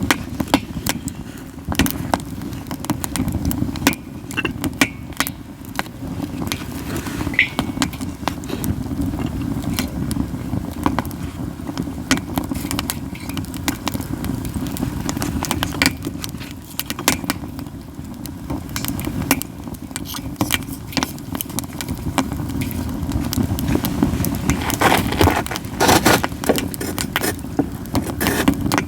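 Katsura wood burning in a campfire: constant crackling with frequent sharp pops, over a steady low rumble. A burst of louder pops comes near the end.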